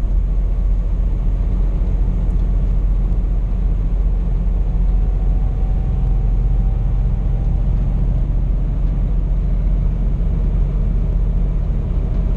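Scania P420 truck's diesel engine and road noise heard inside the cab while cruising, a steady low rumble.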